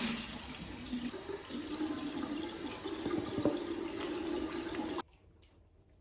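Water running from a tap into a sink, a steady rushing splash that starts suddenly and cuts off abruptly about five seconds in.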